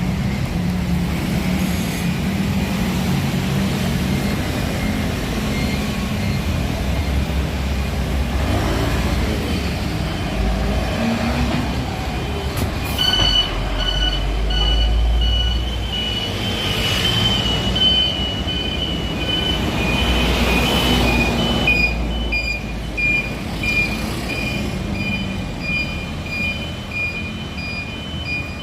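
Garbage truck's diesel engine running, with a repeated high electronic beeping in short, evenly spaced pulses from about halfway on.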